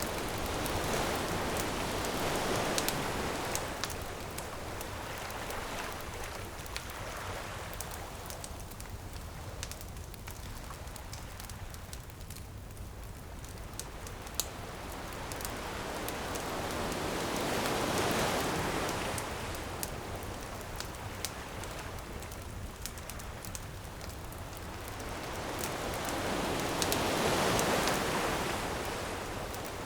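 Ocean waves washing ashore in slow swells, surging near the start, around the middle and near the end, with a bonfire crackling and popping throughout.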